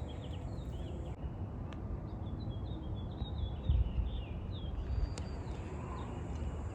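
A songbird chirping a rapid series of short high notes, stopping about five seconds in, over a steady low rumble of wind on the microphone.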